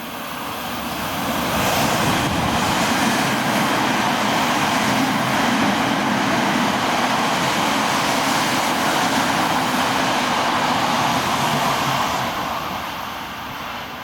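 Odakyu Electric Railway express train passing through the station at speed without stopping, its wheels running on the rails. The noise builds over about two seconds, holds steady for about ten, and fades near the end.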